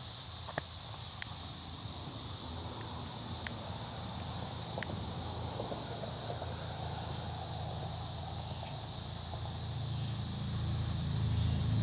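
Steady high chirring of insects, with a handful of isolated sharp snaps in the first few seconds. A low rumble of a vehicle builds near the end.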